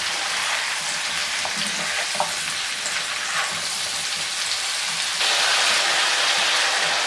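Pumpkin cubes, onion and garlic sizzling in hot oil in a deep non-stick frying pan as the pumpkin heats through. They are stirred with a plastic slotted spatula, with a few light taps. The sizzle gets louder about five seconds in.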